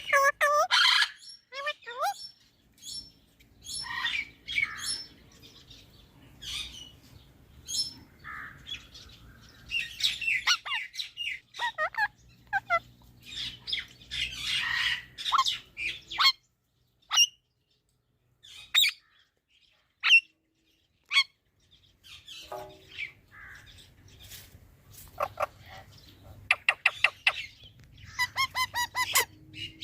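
A pet parrot chirping and squawking in short bursts, with a quieter stretch midway and quick runs of sharp repeated notes near the end.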